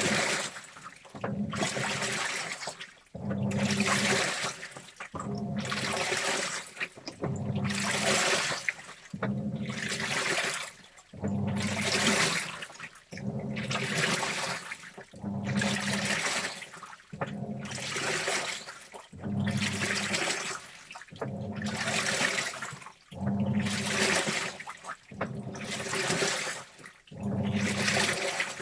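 Washing machine in its wash cycle: the drum agitating back and forth, water sloshing through the clothes with the motor humming on each stroke, about one stroke every two seconds.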